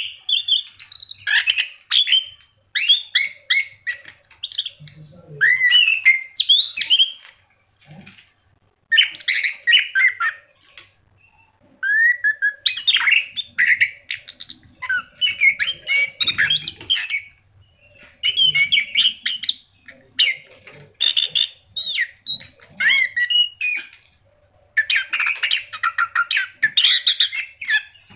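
Orange-headed thrush singing energetically: rapid, varied whistled phrases a few seconds long, broken by short pauses.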